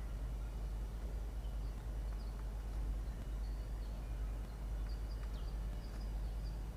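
Steady low hum of the nest-box camera's microphone, with faint, short high bird chirps scattered through it.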